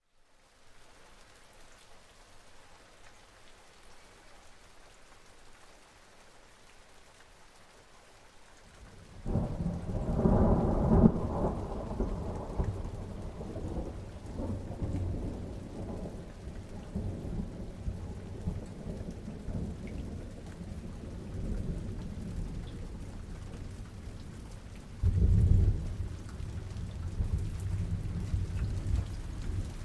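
Rain falling steadily in a distant summer thunderstorm, with two rolls of thunder: one breaking suddenly about nine seconds in and rumbling on for several seconds, and a shorter one near the end.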